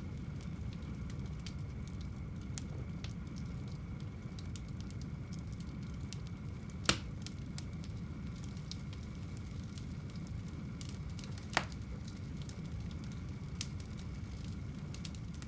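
Wood fire burning in a home fireplace: a steady low rustle of the flames with a scatter of small crackles, and two sharp louder pops about seven seconds and eleven and a half seconds in.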